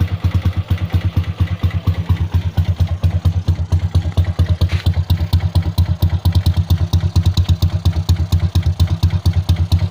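Italika motorcycle engine idling steadily through a bullet-style muffler, a fast even exhaust pulse, with a light mechanical ticking from the valve tappets, which the owner says always make noise.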